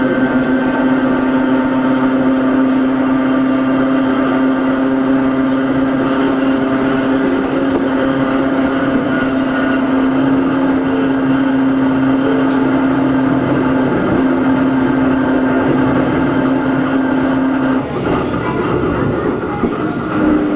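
Hakone Tozan Railway Moha 1 No.106 running, heard on board: the steady hum and whine of its nose-suspended SE121-A traction motors and gearing over wheel and track rumble. The hum stops about three-quarters of the way through, and a slightly higher hum starts near the end.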